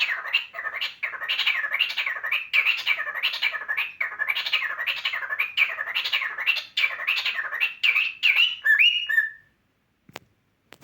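Cockatiel making a fast, steady run of repeated chirping calls, about two or three a second, each sweeping up and down in pitch. The run ends about nine seconds in with a couple of short, level whistled notes, followed by a single click.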